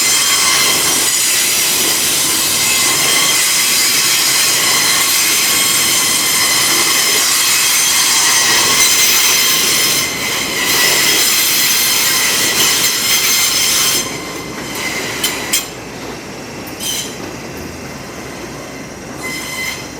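Limestone freight train's wheels squealing against the rails as it moves slowly, a loud, steady high-pitched squeal of several tones. About two-thirds of the way through the squeal drops away, leaving quieter rolling noise with a few short metallic clinks.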